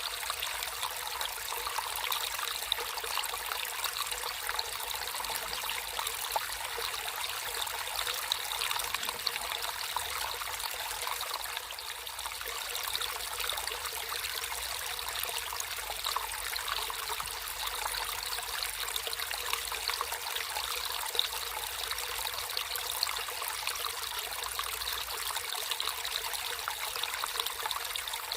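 Naturally flowing water trickling and babbling steadily, a continuous splashy hiss full of tiny droplet sounds, with little deep rumble.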